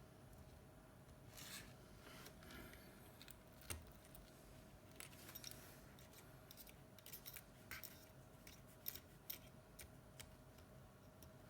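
Faint, scattered sharp clicks and short scrapes of small hand tools working on a smartphone's parts, over a low steady hum.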